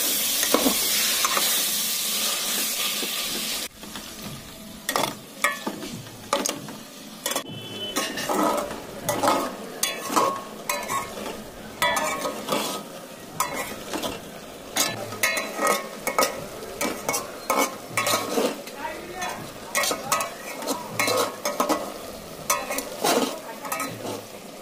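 Goat intestines frying in mustard oil and spice masala in an aluminium pressure-cooker pot, sizzling loudly at first; a few seconds in the sizzle drops suddenly and a steel spatula scrapes and knocks against the pot again and again as the frying intestines are stirred.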